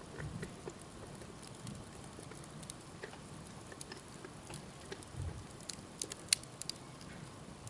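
Wood campfire burning with a steady soft hiss and scattered crackles and sharp pops, the loudest pop a little past six seconds in.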